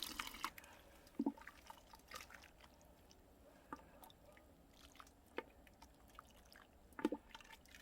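Hot broth pouring into a bowl trails off about half a second in, followed by faint scattered drips and light clicks, as the rice is being warmed by toryeom (repeatedly ladling hot beef-head broth over it).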